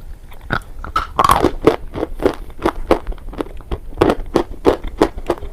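Close-miked chewing of a hard, brittle, chalky material, a sharp crunch with each bite, about three a second, starting about half a second in.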